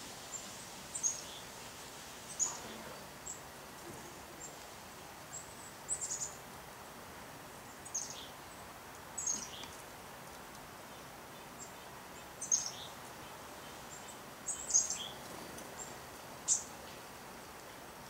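Birds chirping: short, high chirps every second or so, some in quick clusters of two or three, over a steady faint hiss.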